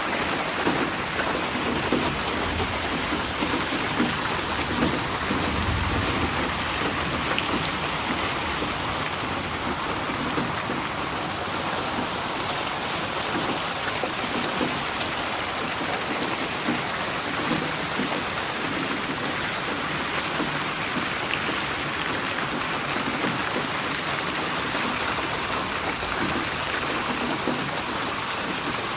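Steady heavy rain falling, an even hiss of drops, with a low rumble of distant thunder a few seconds in.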